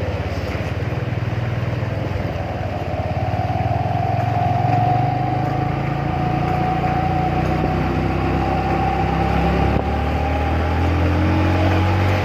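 Motorcycle engine running while riding, with a steady whine above the engine note, which rises slightly near the end.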